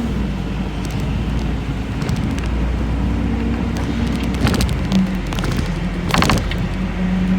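City bus running along the road: steady low engine drone and road noise, with short bursts of rattling clicks about four and a half seconds in and again about six seconds in.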